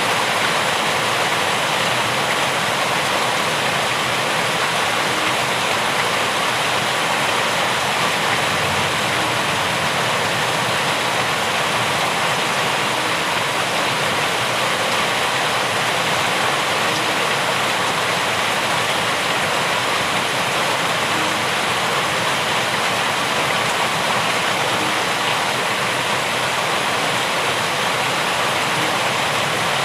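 Rain falling steadily: an even, unbroken hiss of water with no single drops or changes standing out.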